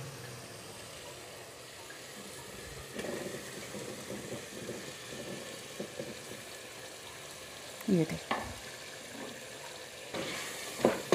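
Masala sizzling in oil in an aluminium pot as cubed raw potatoes go in and are stirred with a wooden spoon. Louder scrapes of the spoon against the pot come near the end.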